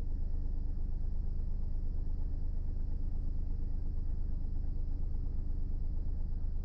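Car engine and road rumble heard from inside the cabin while driving, steady and even.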